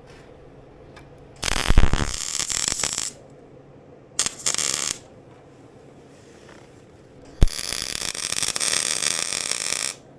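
Electric arc welding in three bursts, a short one in the middle and the longest near the end: the hissing crackle of weld beads being laid to fix bolts onto the steel loader tube.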